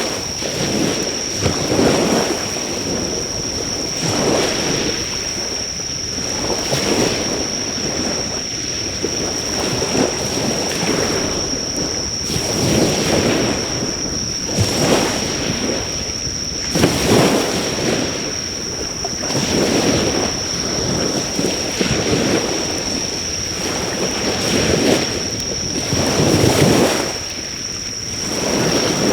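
Waves breaking and washing on the shore, surging every two to three seconds, with insects trilling steadily at one high pitch. A driftwood campfire gives an occasional faint crackle.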